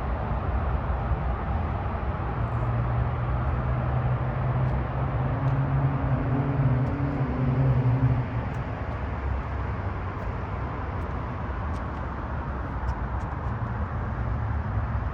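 Vehicle engine running steadily, with a low hum that swells for a few seconds in the middle and then falls back.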